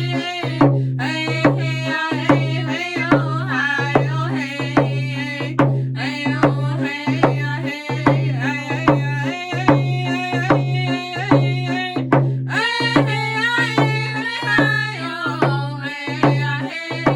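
A round dance song: voices singing over hand drums struck in a steady beat.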